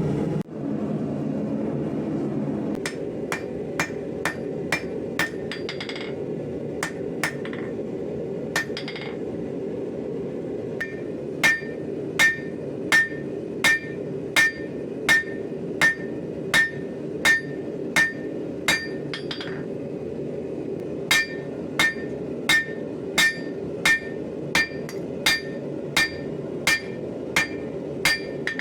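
Forging hammer striking hot 5160 spring steel on an anvil, each blow with a short metallic ring. A few scattered blows come first, then steady runs of about one blow every three-quarters of a second, with a brief pause in between. A steady low rumble runs underneath.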